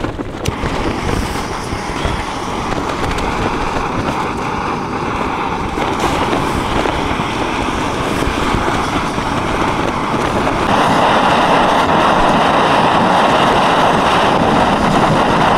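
Gas canister camping stove burner hissing steadily in strong wind, getting louder about ten seconds in; wind buffets the microphone underneath.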